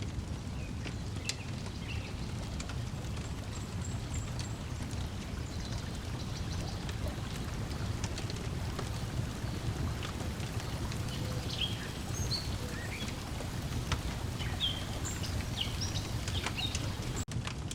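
Lakeside nature ambience: a steady low wash of water lapping at the shore under the scattered crackles and pops of a wood fire, with birds chirping, more of them in the second half. The sound cuts out for an instant near the end.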